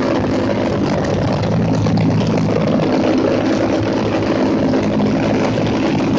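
Motorcycle engines running steadily, a continuous engine drone with no letup.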